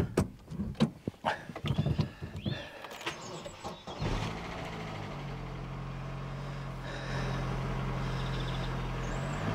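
Vauxhall Astra G 1.8 Ecotec four-cylinder petrol engine being started, with clicks and scattered noise at first. It catches about four seconds in and settles into a steady idle that rises slightly about three seconds later. This is its first start after a new timing belt and water pump.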